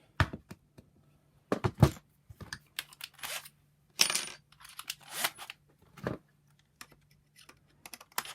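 Sharp plastic-and-metal clicks and clatters, several in a row, from handling the reassembled Shark power nozzle's housing and parts.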